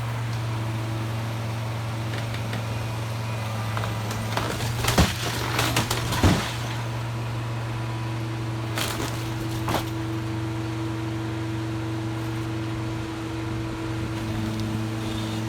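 An engine running steadily at an even pitch, with a few sharp knocks and cracks of wood, a cluster about five to six seconds in and two more near ten seconds.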